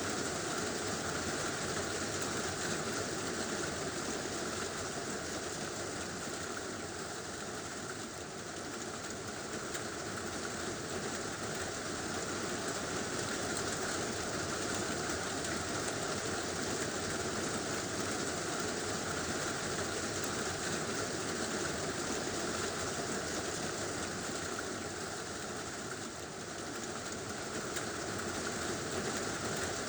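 Heavy rain drumming steadily on a tin roof, a dense, even wash of sound that eases slightly twice.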